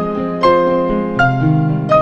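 Background music on an electric piano or keyboard: single melody notes struck about every three-quarters of a second over held chords, in a slow, gentle tune.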